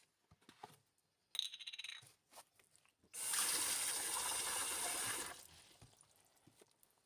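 Kitchen tap running for about two seconds before being shut off, after a few small clicks and a short rapid rattle of kitchenware.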